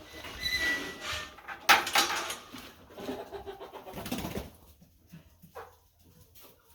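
Chickens making soft, low cooing clucks, with a short high peep near the start. Two loud noisy rustling bursts come at about two seconds and about four seconds in.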